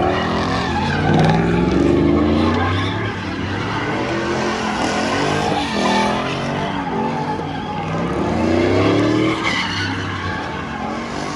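Truck engines revving hard through loud aftermarket exhausts, the pitch climbing and dropping in repeated pulls over a continuous rasp, with strong revs in the first couple of seconds and again about eight to nine seconds in.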